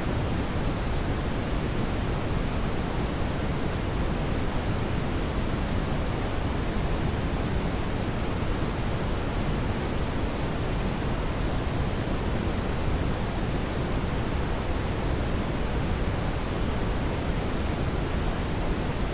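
Brown noise: a steady, even rushing hiss, strongest in the low end, with no changes.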